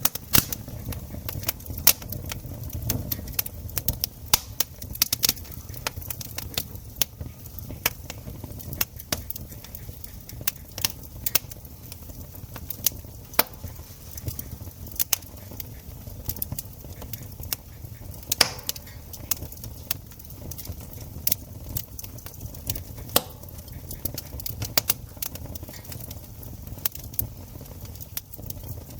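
Campfire burning, the wood crackling and popping in irregular sharp snaps over a low steady rush of the flames.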